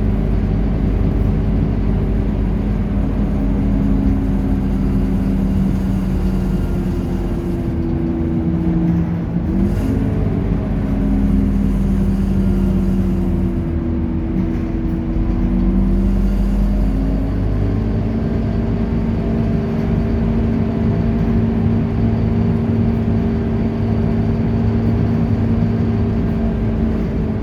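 Scania K230UB bus's diesel engine running under way with a low road rumble, its note shifting as the bus changes speed: it climbs quickly about a third of the way in, drops back, rises again past the middle, then holds steady.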